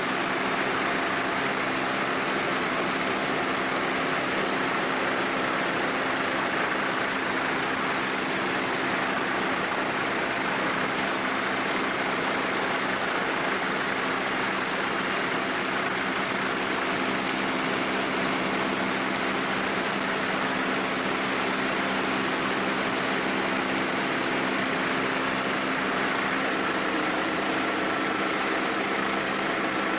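Steady mechanical running noise: a constant low hum under a broad hiss, with a faint high steady tone coming in near the end.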